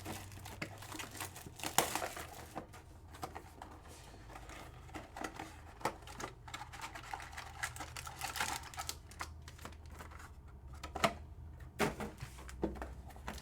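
Sports trading-card boxes and packs being opened and handled by hand: irregular taps and clicks with short stretches of rustling wrapper and cardboard.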